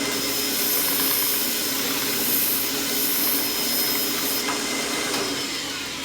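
Homemade 2x72-inch belt sander running steadily with a hiss, while a dried piece of silicone is rubbed back and forth against the moving abrasive belt to clear built-up debris out of its grit.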